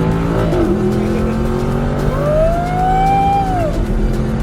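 Audi R8 engine running under way, heard from inside the car, its pitch dropping a little under a second in as the automatic gearbox shifts up. From about two seconds in, a high tone rises, holds for over a second and falls away over the engine.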